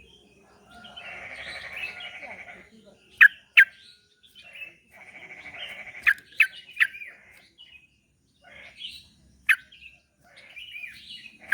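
Yellow-vented bulbul (trucuk) song: bursts of bubbly chatter about two seconds long, broken by sharp, loud single notes, six or so in all. It is a recorded 'pendongkrak' track, played to stir a reluctant caged bulbul into singing.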